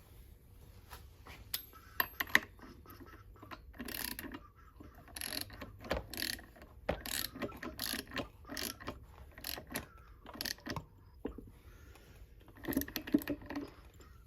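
Metal hand tools and small engine parts clicking and knocking irregularly during moped engine work, with a few sharp clinks about two seconds in and another cluster near the end.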